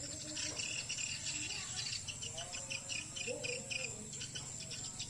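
Swiftlets twittering in a swiftlet house: a dense, continuous chatter of rapid high chirps and clicks, with a few lower gliding notes in the middle.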